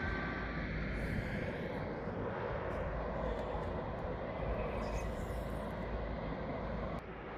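Steady outdoor airport rumble from distant jet aircraft.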